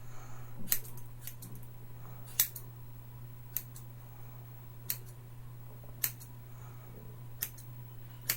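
Hair-cutting scissors snipping through hair in single sharp cuts, roughly one a second, with two quick snips close together early on. A steady low hum lies underneath.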